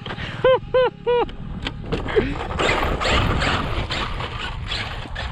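Traxxas RC monster truck's electric motor whining up and down in three quick throttle blips. It then drives over rough ground, tyres crunching with scattered knocks and rattles from the chassis.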